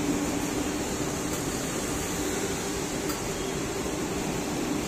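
Vande Bharat electric multiple-unit train passing at speed: a steady rush of wheels on the rails and moving air, with a steady low hum under it.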